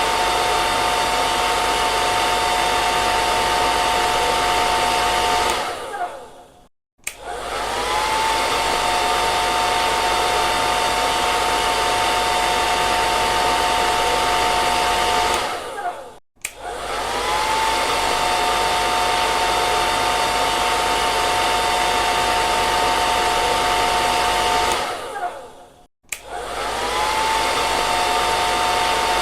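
Hair dryer running: a steady rush of air with a high motor whine. About every ten seconds, three times in all, it dies away to silence for a moment and starts again, the whine rising as it spins back up.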